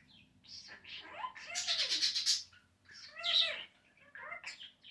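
Pet budgerigar chattering and warbling in several short bouts, with arching, chirpy notes.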